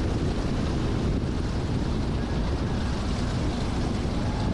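Steady cockpit noise of a Cessna 172S gliding on final approach with its engine throttled back for a simulated engine failure: mostly rushing airflow with a low, even rumble.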